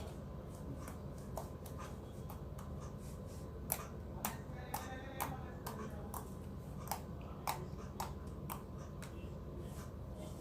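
Glossy slime being squished and poked by hand, making irregular sharp clicks and pops, the loudest a little under four seconds in, over a steady low hum.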